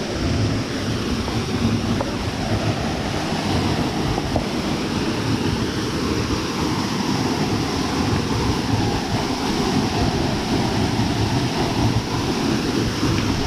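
Steady rushing of a waterfall and its stream over rocks, an even, unbroken roar of water.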